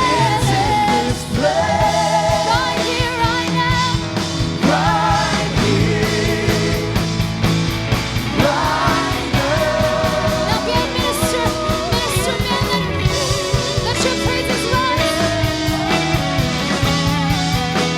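Live worship band music with singing: a sung melody over guitars and a steady drum beat.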